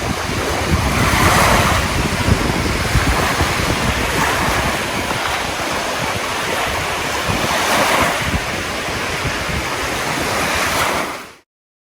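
Rushing water, a steady noisy wash that swells a couple of times, with wind buffeting the microphone. It cuts off abruptly near the end.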